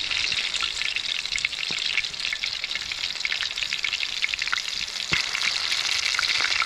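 Breaded chicken cutlets frying in hot oil in a skillet: a steady sizzle full of small crackling pops.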